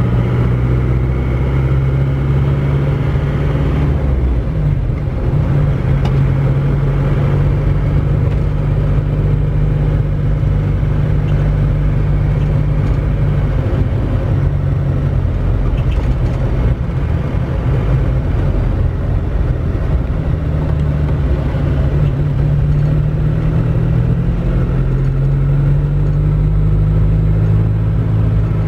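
Isuzu Panther's engine and road noise heard from inside the cabin while driving. The low engine note shifts pitch a few times as the throttle or gear changes.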